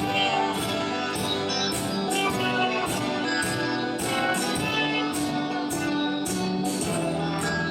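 A live band playing an instrumental passage of a song: held notes from several instruments, over a steady beat of high, hissy percussion hits about twice a second.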